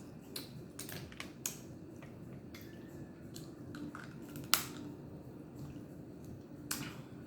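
Crab legs and claws being cracked and picked apart while eating: scattered sharp clicks and cracks of shell, the loudest one about halfway through.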